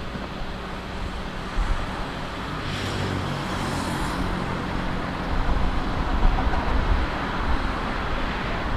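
Steady low rumble of distant engine noise, with a brief higher hiss about three seconds in.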